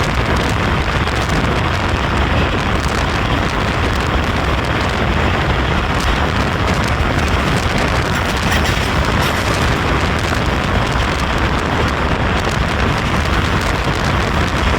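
Steady, loud rumble and rush of a moving train, with faint scattered clicks.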